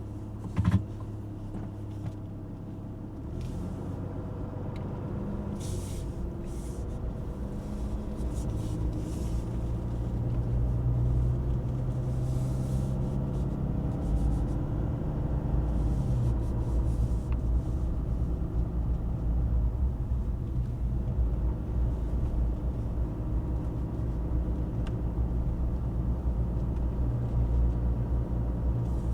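High-output Cummins 6.7-litre inline-six turbodiesel running under acceleration, its note climbing and then dropping once as the 8-speed automatic upshifts, about halfway through; steady low rumble after. A short knock about a second in.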